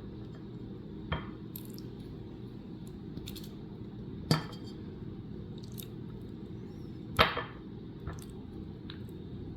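A few short, sharp clinks and knocks of utensils and containers being handled: one about a second in, one around four seconds, one around seven seconds and a fainter one just after, over a steady low hum.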